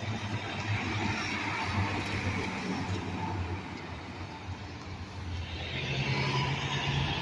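Passing road traffic: a steady vehicle engine hum with tyre and road noise, and another engine growing louder from about five seconds in.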